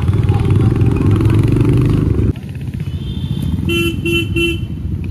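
Motorcycle on the move with a loud low rumble that cuts off abruptly about two seconds in. Quieter street traffic follows, and a vehicle horn gives three short toots near the end.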